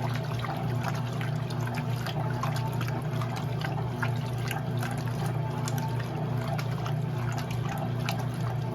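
Electrolux LE06DBD top-load washing machine with water splashing and trickling in the tub over a steady low hum.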